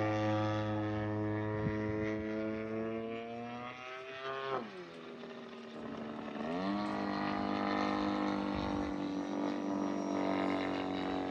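RC model airplane engine and propeller running, holding a steady pitch, then dropping sharply about four and a half seconds in before climbing back up and holding steady again.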